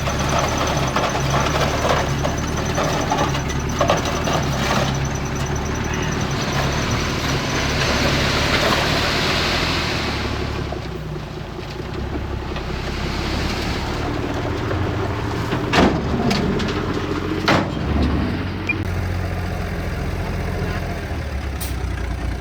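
Heavy diesel machinery running steadily, with a rushing hiss in the middle and two sharp knocks later on.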